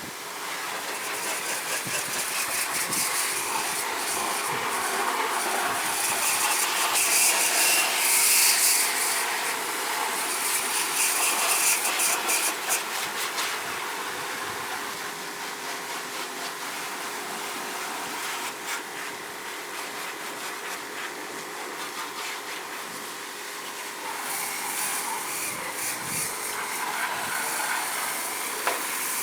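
Pressure-washer spray of water on an air-conditioner unit and its fan, a steady rushing hiss that grows louder and softer as the jet moves, loudest in the first half.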